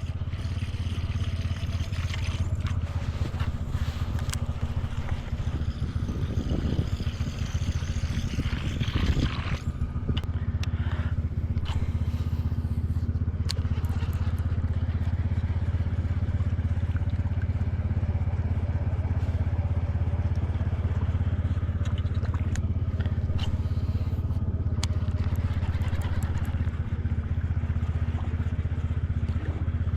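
A boat's motor running steadily, a low, even hum, with a few faint clicks and scrapes in the first third.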